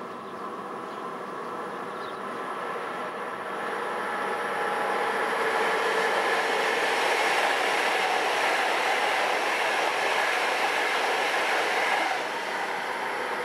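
High-speed electric train passing at speed. Its steady rushing noise builds over a few seconds, holds, then drops off sharply near the end as the last car goes by.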